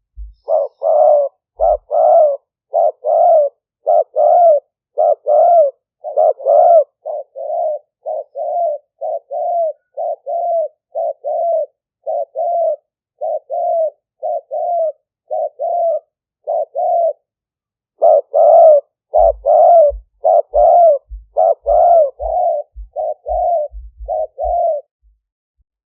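Spotted dove decoy cooing in a long run of short coos, about two a second, with a brief break about two thirds of the way in before it resumes. This is a male decoy's call, used to draw wild spotted doves in. Low thumps come with the later coos.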